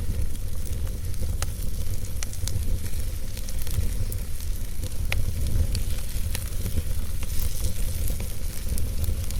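Fire burning in a fireplace: a steady low rumble and faint hiss, broken by scattered sharp crackles and pops at irregular moments.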